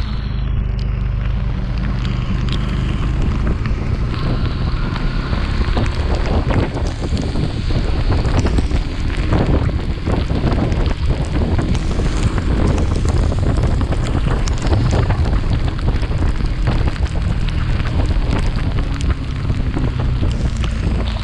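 Wind buffeting the microphone of a chest-mounted action camera on a moving Yamaha FZS V3 motorcycle, with the bike's single-cylinder engine running steadily underneath.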